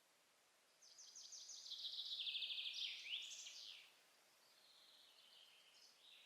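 A songbird sings one fast, trilled, high-pitched phrase of about three seconds, starting about a second in and ending in a quick flourish. A fainter song phrase follows near the end.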